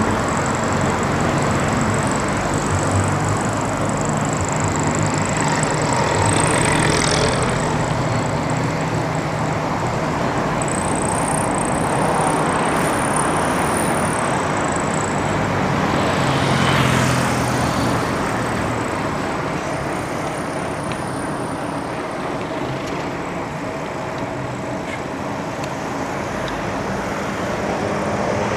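Road traffic heard from a bicycle: motor vehicles running alongside and passing. One goes by about seven seconds in, and a louder one about seventeen seconds in.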